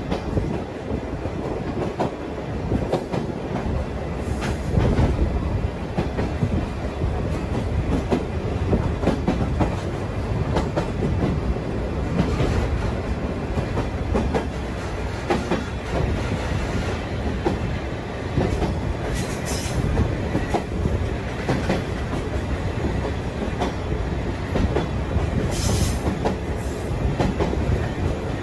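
Sagano scenic trolley train running along its track, heard from its open-sided carriage: a steady rumble with rail clatter, plus a couple of brief high-pitched squeaks about two-thirds of the way through and near the end.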